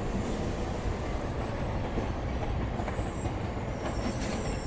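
Steady running noise of an electric suburban local train at speed, heard at an open coach window: wheels on rail and rushing air, with another EMU local passing on the next track.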